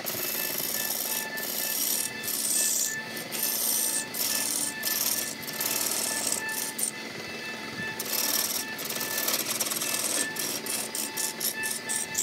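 Lathe gouge cutting into a large spinning wooden cylinder, a rough hissing scrape of shavings being torn off. The cut breaks off for about a second in the middle and stutters in quick short cuts near the end as the tool is lifted and reapplied, over a steady hum.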